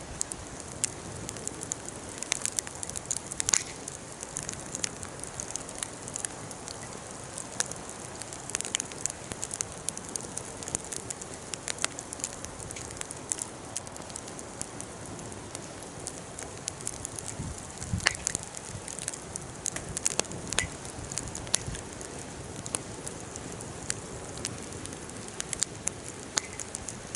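Wood fire burning, crackling steadily with frequent irregular sharp pops and snaps over a soft hiss.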